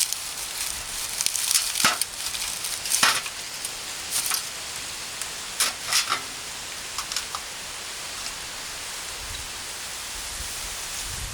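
Wood campfire crackling: a steady hiss with sharp pops every second or so, a cluster of them in the first seven seconds and fewer after.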